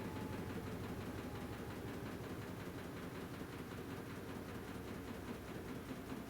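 AQUA washing machine with a DDM inverter motor running mid-cycle: a steady hum with a rough, even wash of noise over it.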